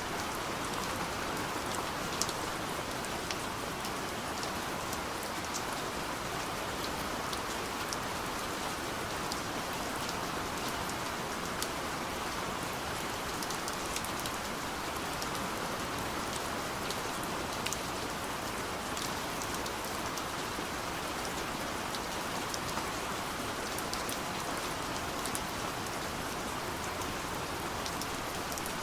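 Gentle rain falling on a window: a steady patter with many small, sharp drop ticks scattered throughout.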